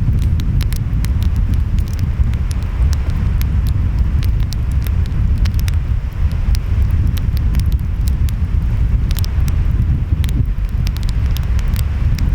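Wood fire crackling, with frequent sharp irregular pops, over a loud steady low rumble of wind and surf.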